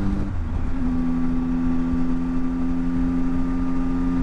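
Motorcycle engine running while riding; its note drops about half a second in, then holds at a steady pitch.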